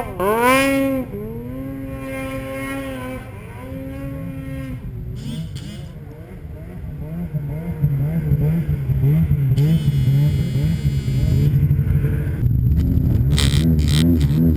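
Snowmobile engine running at high revs, its pitch dipping and rising again in the first second, then holding steady. In the second half a lower, louder, pulsing engine drone takes over.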